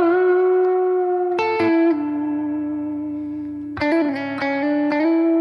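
Electric guitar played through a BOSS GT-1000 amp modeller and Two Notes Cab M, with a clean tone. A note is held ringing, then fresh notes are picked about a second and a half in, and a quick run of notes comes near the end.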